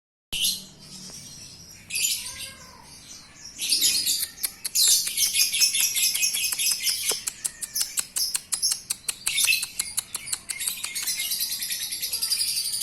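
Lovebird singing a high, rapid chattering trill: two short phrases, then from about four seconds in an almost unbroken run of fast notes.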